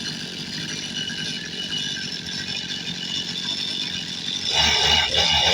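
Goped Sport's small two-stroke engine running with a rattle, getting louder with a pulsing beat about four and a half seconds in. It is running rich while its carburetor needle is being leaned out.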